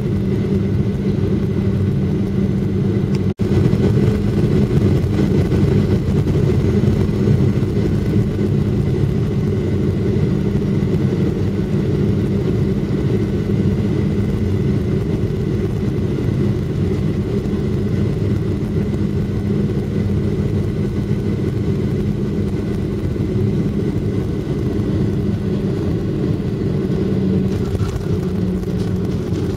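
Steady low rumble of an airliner's engines and airflow heard from inside the passenger cabin during the landing, with a constant hum under it. The sound cuts out for an instant about three seconds in.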